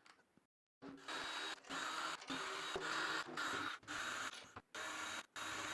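Cordless drill fitted with a drum-key bit spinning snare drum tension rods loose in a series of short trigger bursts, each about half a second to a second long, with a steady motor whine.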